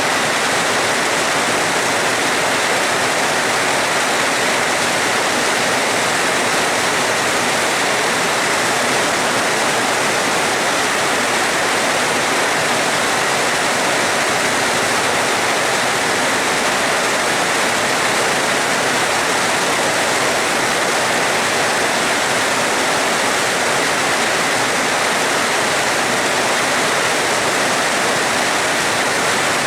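Steady rain, a dense even hiss that holds the same level throughout.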